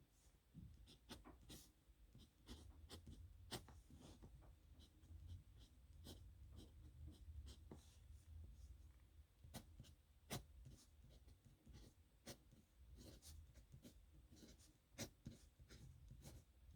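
Pen writing on paper: faint, irregular short scratches and light taps of the nib as strokes are made.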